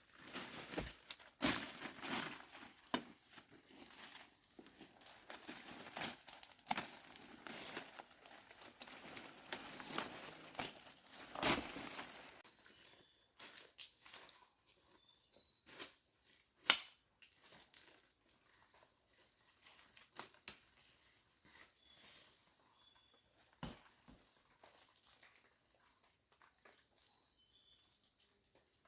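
Rustling and crackling with scattered sharp clicks for the first twelve seconds or so. Then a steady high-pitched insect trill takes over, broken by a few single knocks.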